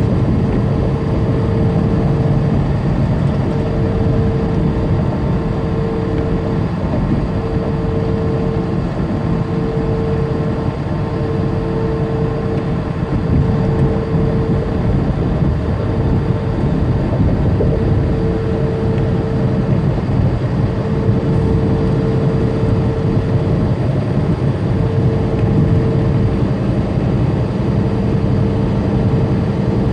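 Inside a semi truck's cab while driving: steady diesel engine drone and road noise, with a faint whine that comes and goes every second or two.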